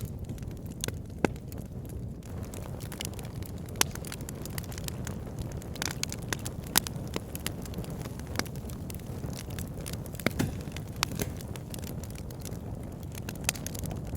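Wood fire burning in a log burner: a steady low rumble of flames with irregular sharp pops and crackles from the burning logs.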